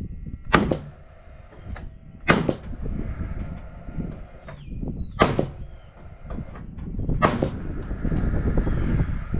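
Four loud, sharp knocks a second or more apart, from fastening purlins to garage roof trusses, with wind rumbling on the microphone and growing louder near the end.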